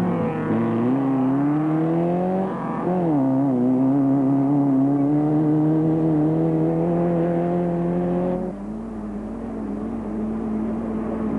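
Off-road race vehicle's engine pulling hard, its pitch climbing, dipping briefly about two and a half seconds in, then climbing steadily again. About eight seconds in the sound switches abruptly to a steadier, lower engine note.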